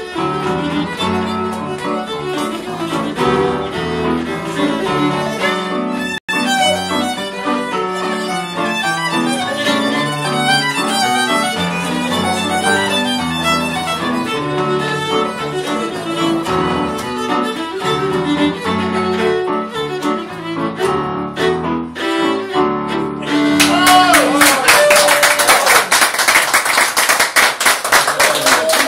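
Traditional Irish session tune led by fiddle, played briskly. It ends about five seconds before the close and gives way to loud applause.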